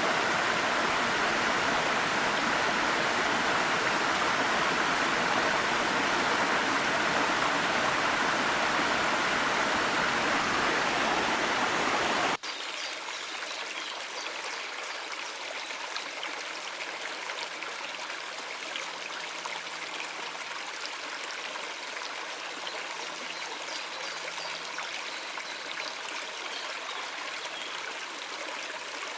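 Water of a small mountain stream running steadily. About twelve seconds in it cuts abruptly to a quieter, thinner flow with light trickling splashes.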